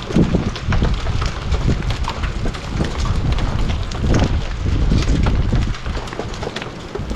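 Large hailstones, about quarter-size, pelting down in a dense, irregular clatter of hits, with wind buffeting the microphone.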